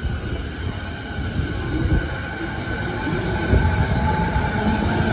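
JR East 209 series electric commuter train pulling out past the platform: a steady rumble of wheels on rail with a continuous high whine from the traction motors and light knocks from the running gear.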